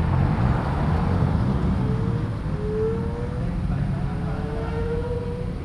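Car engines and exhausts rumbling low as cars drive off. Over the rumble a thin whine rises slowly in pitch twice, as an engine pulls away.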